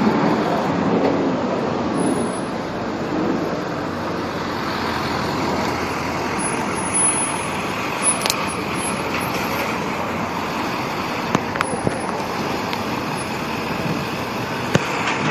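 Steady city street traffic noise, with a few short sharp clicks around the middle and one near the end.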